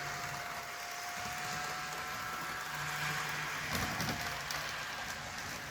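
HO scale Walthers Trainline GP15-1 model locomotive running laps on the track: a steady thin motor whine over a continuous hiss of wheels on the rails.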